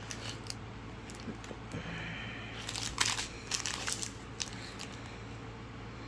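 Plastic packaging crinkling as it is handled, with a few short rustles and crackles about halfway through, over a faint low hum.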